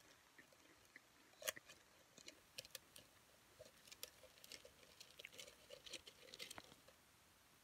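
Potato chips crunching as they are chewed: a run of small, sharp crunches. The loudest comes about a second and a half in, and they stop near the end.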